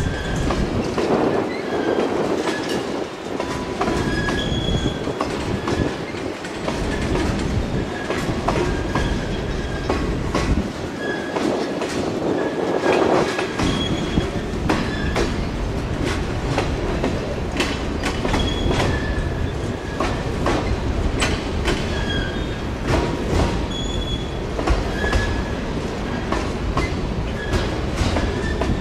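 Freight cars rolling past on the rails: a steady rumble of wheels on track, with clicking as the wheels cross rail joints and short, high wheel squeals every second or two.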